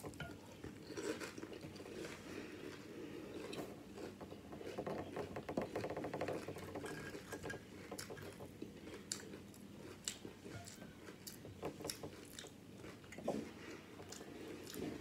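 A person biting and chewing Flamin' Hot Doritos nacho chips with salsa on them: a sharp bite at the start, then irregular crunches and chewing.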